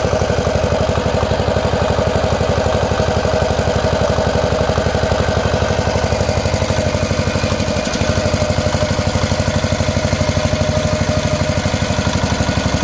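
RK Plus diesel engine driving a 3 kW generator, running steadily at constant speed with a fast, even beat.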